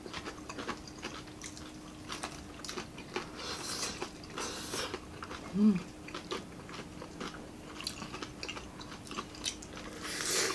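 Close-up eating sounds: crunchy bites and chewing of crispy fried chicken neck, with many small crackles and smacks. A brief hum of the voice about halfway through.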